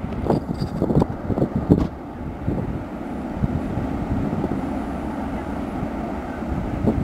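Freight train cars rolling along the track: a steady low rumble with several sharp wheel clanks in the first two seconds.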